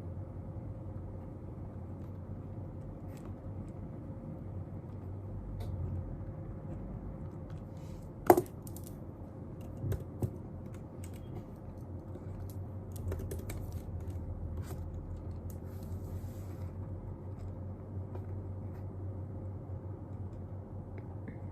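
Scattered clicks and taps of desk work over a steady low hum. There is one sharp, louder click about eight seconds in, a quick run of clicks around thirteen seconds, and a brief soft rustle a few seconds later.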